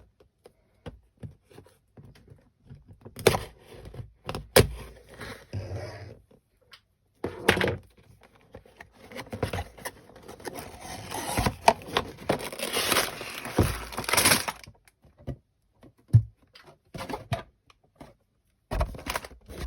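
A Lego set's cardboard box being opened and unpacked by hand: scattered knocks and taps, with rustling and tearing of cardboard and packaging, longest between about nine and fourteen seconds in.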